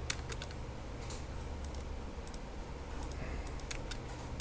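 Scattered, irregular clicks of a computer mouse and keyboard during CAD drawing, such as trimming lines, over a faint steady low hum.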